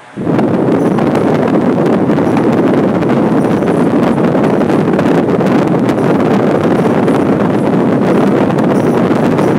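Arno Xtreme Breeze 40 cm table fan blowing air straight into the microphone: a loud, steady rush of wind buffeting that starts abruptly right at the outset and holds evenly.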